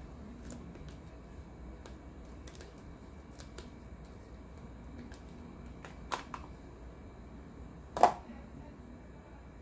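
Handling noise from homemade soap bars and their plastic molds: scattered light clicks, a sharper knock about six seconds in and a louder single knock about eight seconds in.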